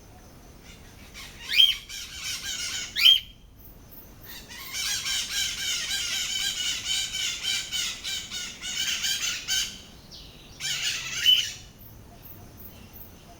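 A pair of white-eyed parakeets calling: loud, harsh rising screeches twice in the first few seconds, then a long bout of rapid chattering squawks in the middle, and another screech burst near the end.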